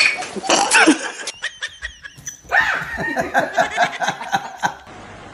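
People laughing in quick, repeated bursts of snickering. About two seconds in, a different person's laughter takes over.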